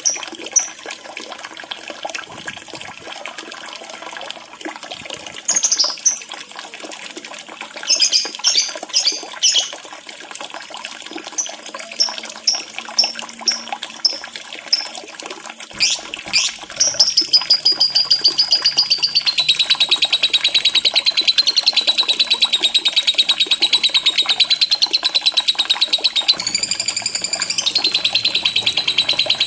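Lovebird calls over running water: scattered short, high chirps, then about halfway through a long, fast chattering trill that starts high, drops in pitch and runs on unbroken, the lovebird's extended 'ngekek' song used as a lure to make a quiet lovebird call.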